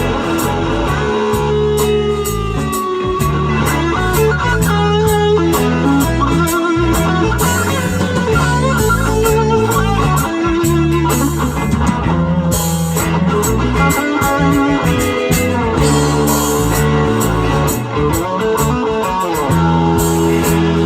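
Live band playing an instrumental passage of a song with no singing: a guitar leads over bass and drums.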